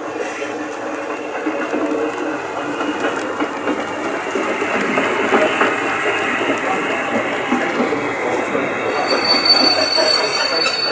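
OO gauge model train running along the layout's track, a steady rolling rattle with a thin high squeal coming in near the end.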